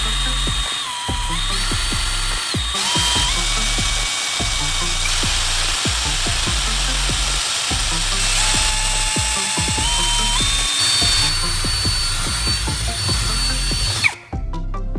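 A power tool running steadily with a dense, hissing whirr over background music, cutting off abruptly about fourteen seconds in.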